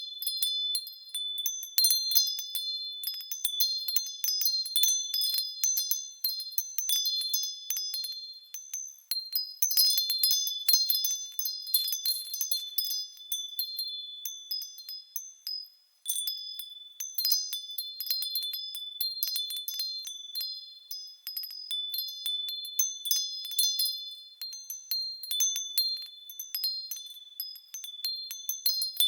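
Japanese fūrin wind chimes ringing as the wind sways them: frequent, irregular high tinkling strikes that overlap in clusters, thinning out briefly about halfway through.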